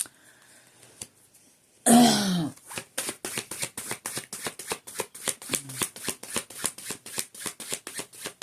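A short, loud vocal sound falling in pitch about two seconds in, then a deck of cards being shuffled by hand: quick, even slaps about five a second.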